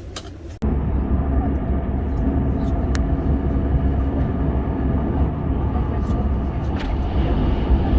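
Steady low rumble of a moving vehicle's running noise, starting abruptly about half a second in.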